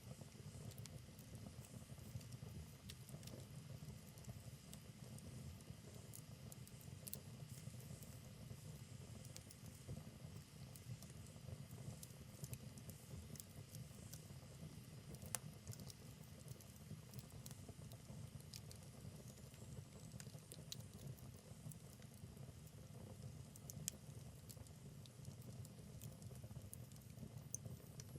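Wood fire in a fireplace crackling faintly over a low, steady rumble, with scattered sharp pops. Two pops, about halfway through and again later on, stand out louder than the rest.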